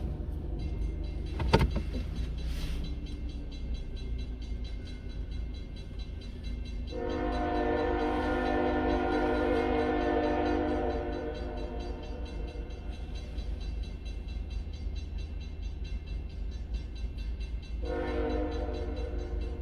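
Locomotive air horn sounding a long blast of about four seconds, a chord of several notes, then starting another blast near the end, over a steady low rumble.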